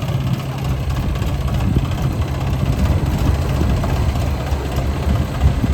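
Diesel engine of a piece of heavy construction machinery running steadily at a low, even pitch.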